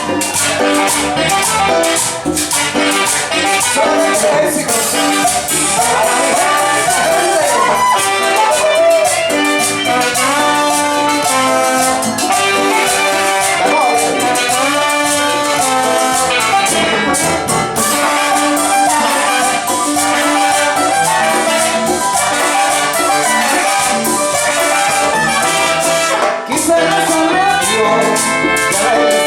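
A Latin dance band playing a continuous upbeat number.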